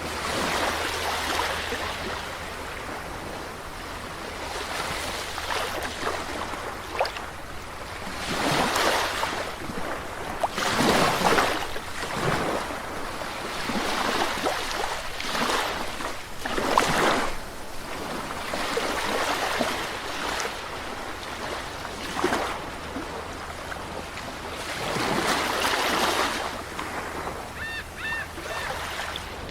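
Sea waves breaking and washing onto the shore, swelling and easing every few seconds. A bird calls a few times near the end.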